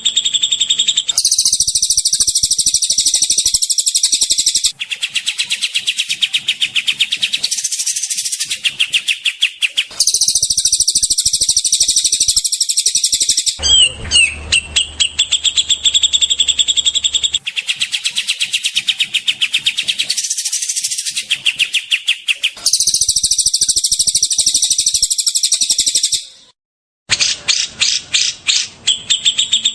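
Songbird training recording of rapid, loud, high-pitched repeated calls and chattering trills. It comes in blocks of a few seconds that cut abruptly from one call type to another, as in a spliced masteran track of cililin, kapas tembak and cucak jenggot song.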